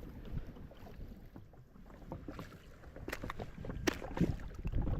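Low wind rumble on the microphone and water sloshing around a drifting jet ski, with a few light clicks and knocks in the second half.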